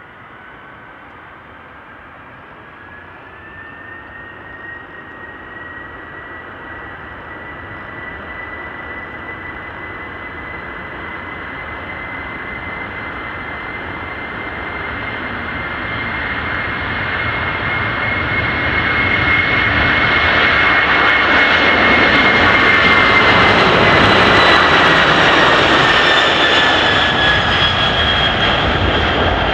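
Cargo jet's engines at takeoff power during its takeoff roll, growing steadily louder with a high turbine whine over a rushing roar. The whine drops in pitch as the jet passes, about two-thirds of the way through.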